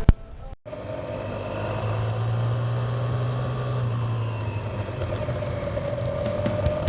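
Motorcycle engine running steadily while under way, with a slight fall and rise in pitch partway through.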